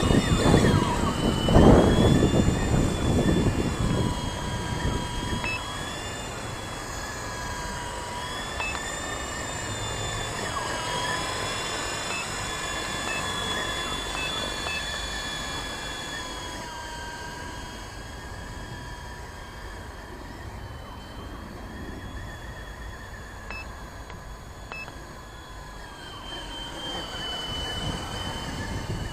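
Electric motor and rotors of a WLtoys V913 brushless RC helicopter whining in flight, the pitch wavering up and down as the throttle changes. A loud low rushing sound fills the first few seconds.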